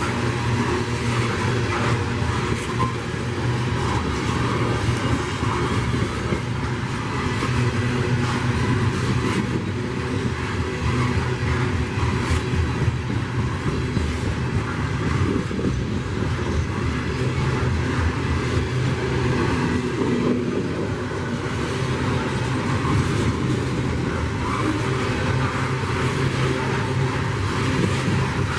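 A train rolling past: a steady diesel locomotive engine drone under the rumble and clatter of the cars.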